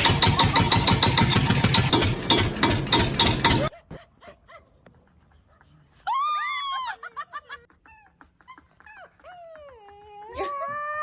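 A loud, rattling, engine-like noise that cuts off abruptly after about three and a half seconds. Then a pet's high whining calls: a short arched call, followed near the end by one long call that rises, holds and falls.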